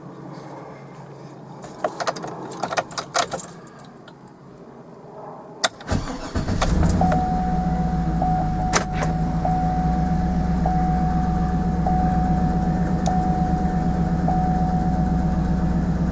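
A few clicks and jingling keys, then the 2007 GMC Yukon Denali's V8 is cranked and catches about six seconds in. It settles into a steady idle, with a chime beeping about once a second over it. This is the first start after the intake manifold was reinstalled and the oil pressure sensor replaced.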